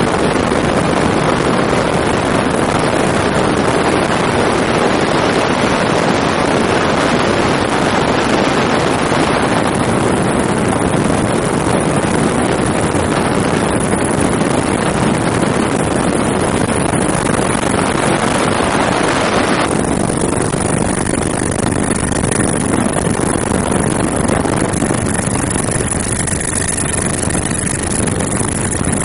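Helicopter engine and rotor noise heard from on board: a loud, steady drone with wind hiss. The upper hiss drops a little twice, about a third and two thirds of the way through.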